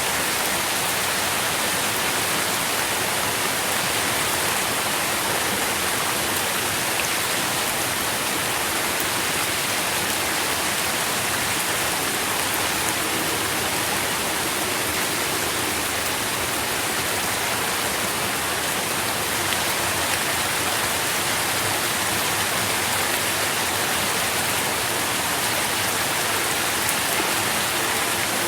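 Steady rain falling, a dense even patter of drops on leaves with a bright hiss and no let-up.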